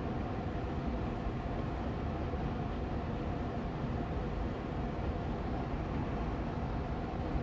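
Austin Air Allergy Machine air purifier fan running on medium speed: a steady, even rush of air with a faint hum.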